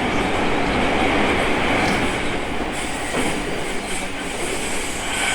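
E217-series electric train running, heard from inside the car: a steady rush and rumble of wheels on the rails.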